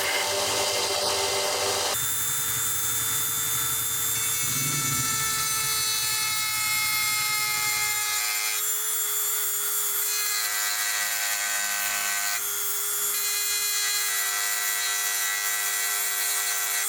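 Rough rubbing and scraping of metal being worked for about two seconds, then a small electric power tool running steadily with a whining motor as it works the knife. The motor's tone shifts abruptly twice.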